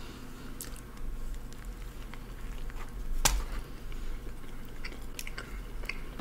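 Close-miked chewing of a McDouble cheeseburger: soft, wet mouth clicks, with a louder bite about three seconds in.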